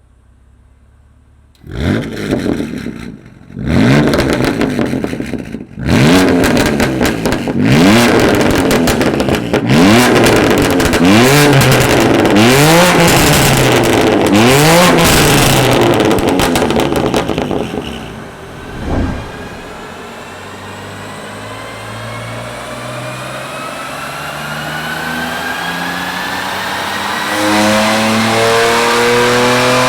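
BMW F80 M3's twin-turbo straight-six through a stainless VR Performance cat-back exhaust, coming in about two seconds in and revved hard over and over, about once a second, with sharp pops and crackles between the revs. After a short lull the engine pitch climbs slowly and steadily, getting louder near the end, as in a long pull under load.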